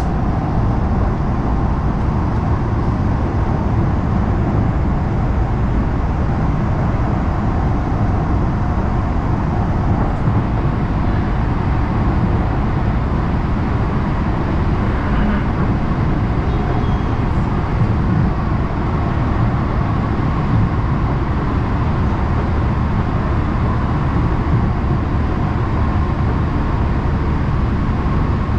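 Los Angeles Metro Rail train running, heard from inside the car: a steady low rumble of wheels on rails.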